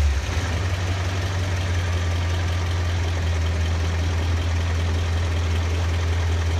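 BMW E39 M5's S62 V8 idling steadily close up in the engine bay, settling back to idle just after a rev.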